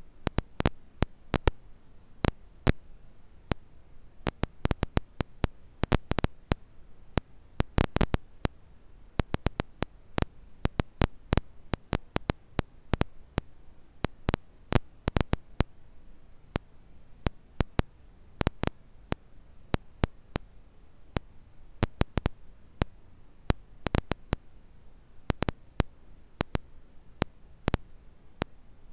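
Wood fire crackling: irregular sharp pops and snaps, several a second and varying in loudness, over a faint low background.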